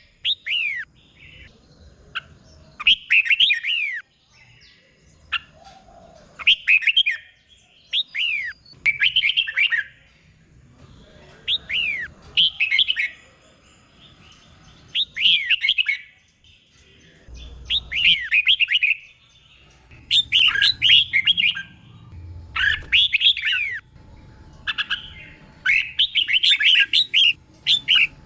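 Red-whiskered bulbul singing: short bright phrases of swooping notes, repeated every second or two, coming thicker near the end.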